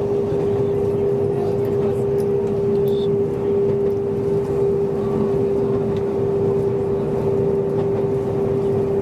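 Kobe Electric Railway electric train running at steady speed, heard from inside the car behind the driver's cab: an even rumble of running with a constant mid-pitched hum.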